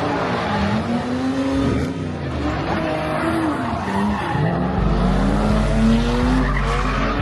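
Car doing a burnout: the engine revs up and down repeatedly while the tyres squeal against the pavement. A deep steady drone joins about five seconds in.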